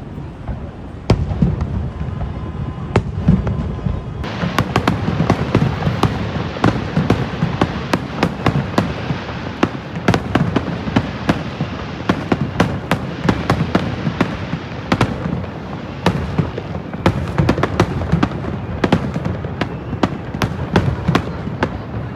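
Fireworks display: a loud boom about a second in, then from about four seconds on a dense, continuous crackling and popping of many shells over a steady low rumble of booms.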